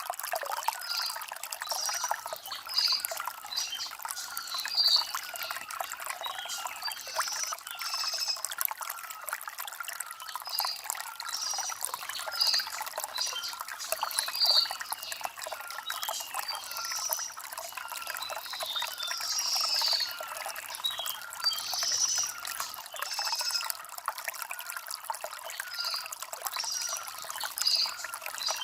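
Shallow stream trickling and splashing over stones, a light, bright water sound with little low rumble, with birds chirping over it.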